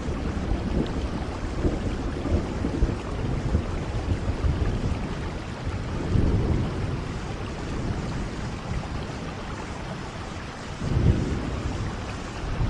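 Steady heavy rain with low rolling thunder that swells about six seconds in and again near the end.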